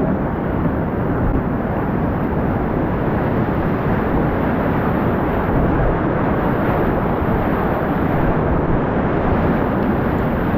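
Whitewater rapids rushing: a loud, steady noise of churning river water at spring runoff flow.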